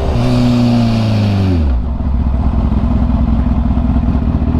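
Kawasaki Ninja H2's supercharged inline-four engine, with an aftermarket Competition Werkes exhaust, running on the move. The revs fall away over the first two seconds as the bike slows, and a hiss cuts off at the same time. The engine then settles into a low, uneven rumble at low speed.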